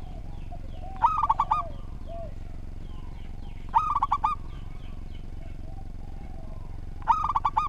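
Zebra dove (perkutut) singing: three short cooing phrases about three seconds apart, each a quick run of clipped notes. Faint chirps from other small birds sound behind it.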